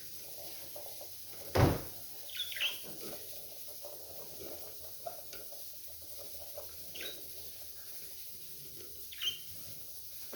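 Budgerigars giving a few short, scattered chirps, with one loud knock about one and a half seconds in.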